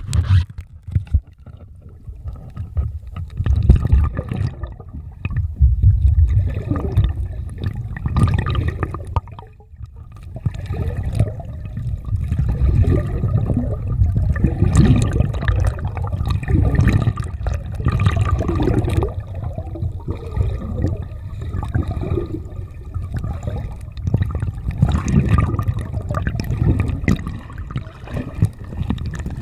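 Water sloshing and gurgling against a small sailboat's hull in uneven surges, over a steady low rumble.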